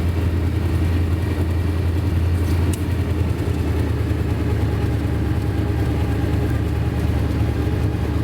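The Skullburban, a Suburban with a swapped engine, running steadily: an even, low engine drone with no revving.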